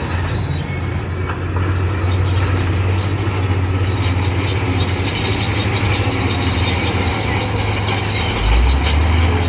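Crawler bulldozer at work: a heavy diesel engine rumbles under the squeal and clatter of its steel tracks. About eight and a half seconds in, the engine note deepens and grows louder as it takes more load.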